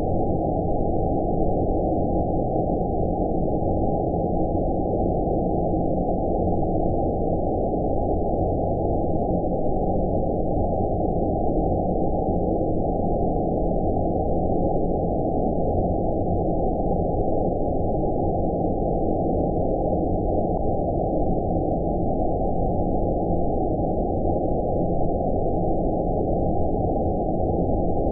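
Steady deep rumbling noise of an 'outer space' sleep-sound track: even noise with everything above about 1 kHz cut off, so it sounds dark and muffled, holding a constant level throughout.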